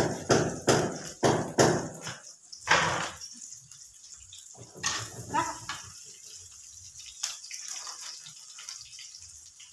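Baby squid frying in oil in a wok, a steady sizzle, with a quick run of evenly spaced knocks or scrapes in the first two seconds and a few scattered knocks later.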